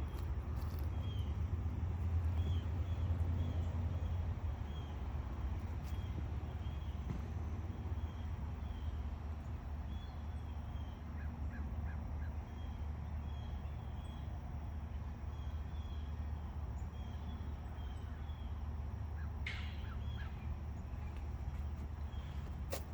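Birds calling: short high chirps repeating every second or so, with one louder call about twenty seconds in, over a steady low rumble.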